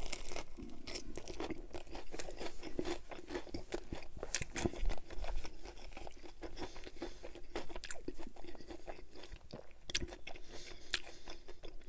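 Close-miked biting and chewing of a grilled chicken Caesar wrap, with many small irregular crunches throughout.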